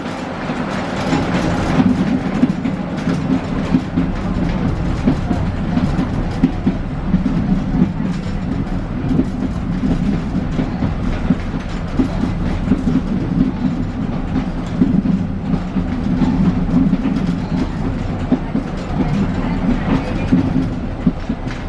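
Narrow-gauge train running, heard from inside the coach coupled behind a ZDM5 diesel locomotive. A steady low drone carries on throughout, under a constant clatter of wheel clicks and rattles.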